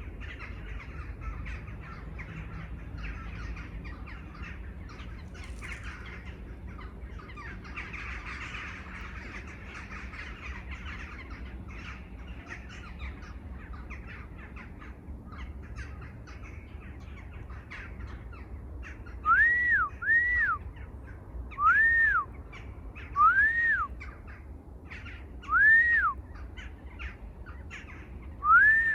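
Wild birds calling together in a dense chorus. Later a single bird repeats a loud, clear whistled note that rises and falls, six times a second or more apart.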